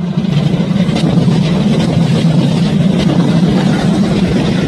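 Kintetsu electric train passing, its running noise jumping up sharply at the start and then holding loud and steady.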